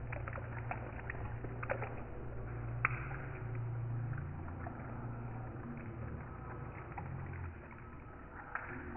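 Rain falling steadily, with scattered sharp drip taps, the loudest about three seconds in, over a low rumble.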